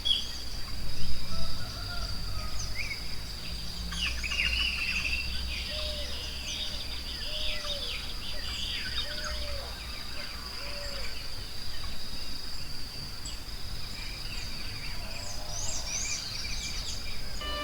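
Forest ambience: many small birds chirping and trilling over a steady, high insect buzz. In the middle comes a series of short, low calls about once a second, and there is a brief low rumble about a second in.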